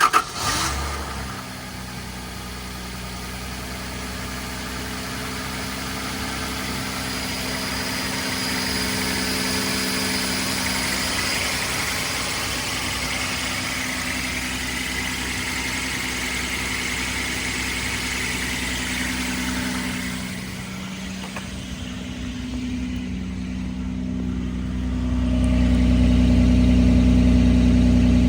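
1997 Toyota Land Cruiser engine catching and running at a fast cold-start idle, with a high whine over the engine note. About two-thirds of the way through, the idle drops and the whine fades. Near the end a louder, deeper exhaust rumble comes in.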